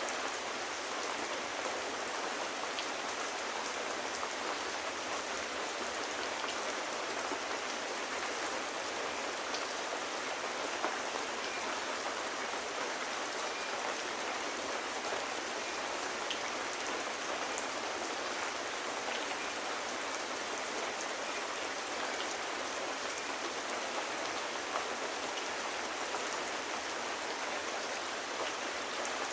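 Steady rain falling, an even hiss with no let-up, and a couple of faint ticks.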